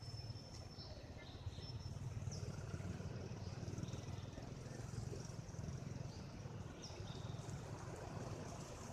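Low, steady rumble of road traffic, a vehicle engine running, with a few faint, short high chirps over it.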